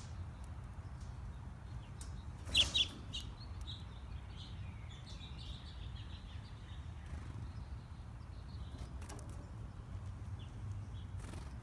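Small birds at a backyard feeder: a short, loud double burst about two and a half seconds in, then scattered faint high chirps, over a steady low background rumble.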